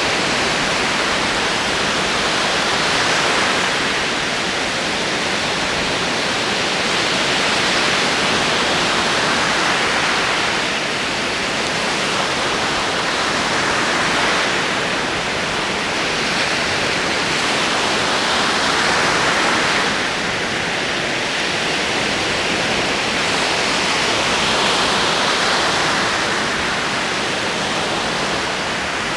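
Ocean waves rolling onto a shore, a continuous rush of surf that swells and eases every few seconds.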